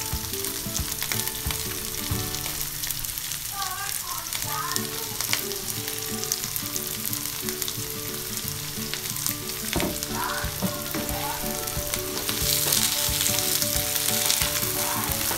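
Diced bell peppers and onion sizzling in hot oil in a nonstick frying pan as they are sautéed and stirred, with occasional light knocks. The sizzle grows a little louder near the end.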